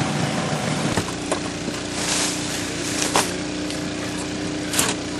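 Outboard motor of a Zodiac inflatable boat running at low throttle, its note changing about a second in and then holding steady, with a few short sharp noises over it.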